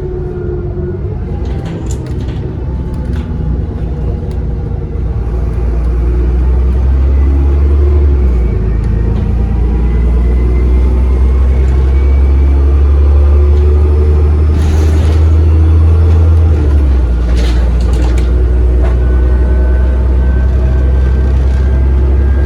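Bus's diesel engine heard from onboard, pulling under load with a strong low drone, and a thin turbocharger whistle rising slowly in pitch as it builds speed, twice. A few short rattles break in along the way.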